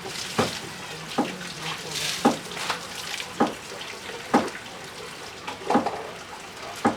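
Sharp knocks roughly once a second over a steady rushing noise like running water.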